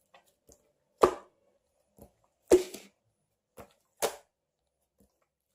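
Slime being pressed and squeezed by hand, making sharp wet pops and clicks: three loud ones about a second and a half apart, with fainter ones between.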